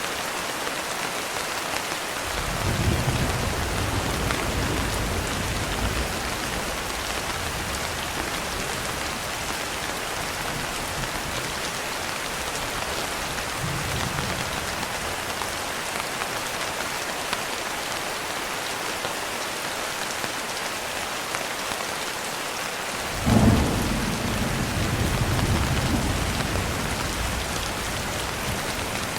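Steady rain with low rumbles of thunder: a roll about two seconds in lasting a few seconds, a faint one midway, and a sharper crack near the end that rumbles on for a few seconds.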